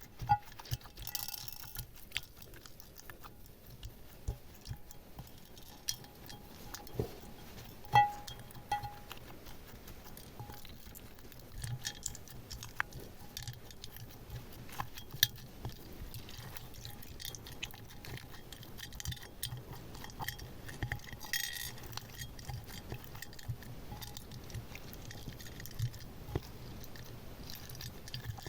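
Small plastic and glass decorations clicking and clinking as they are handled and pressed into slime, with soft squishy slime sounds. Scattered sharp taps throughout, the loudest about eight seconds in.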